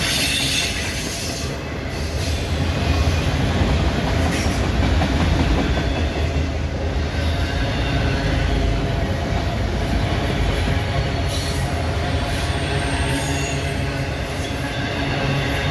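Freight train cars rolling past close by: a loud, steady rumble with the wheels squealing faintly and clacking on the rail.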